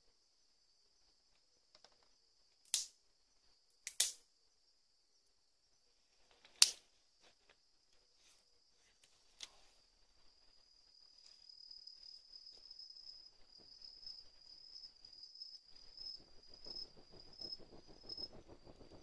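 A steady high insect trill runs throughout and becomes a pulsing chirp near the end. Four sharp cracks or pops sound across the first ten seconds, the loudest about six and a half seconds in. In the second half a low crackling noise builds.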